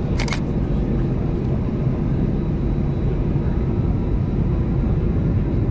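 Inside the cabin of an Airbus A320-214 taxiing on the ground: steady low rumble of the engines at taxi power and of the airframe rolling. A brief sharp click or rattle just after the start.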